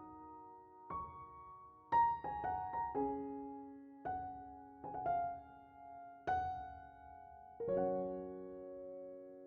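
Slow piano music: single notes and chords struck every second or so and left to ring, ending about three quarters of the way in on a held chord that slowly fades.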